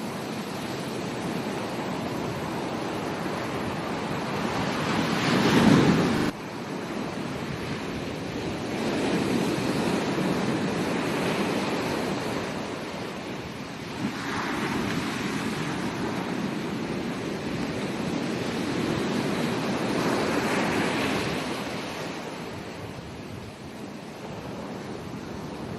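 Ocean waves breaking and washing up a beach, the surf swelling and easing every few seconds, loudest about six seconds in.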